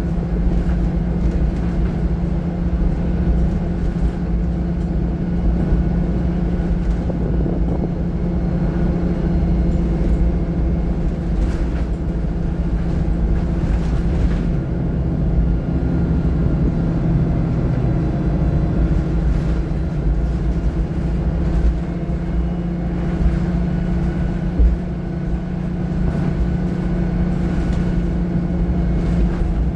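VDL SB200 single-deck bus heard from inside while under way: the diesel engine runs steadily over a constant road rumble, with a couple of brief rattles from the body.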